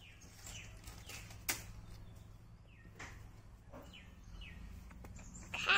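Small birds chirping, short falling calls roughly once a second, with a couple of sharp clicks between them and a brief louder pitched call right at the end.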